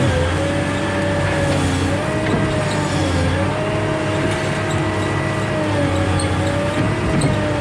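Heavy diesel engine running steadily, its pitch sagging briefly and recovering several times as the load changes.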